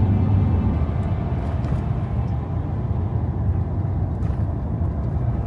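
Vehicle driving along the highway: a steady low rumble of engine and tyre noise.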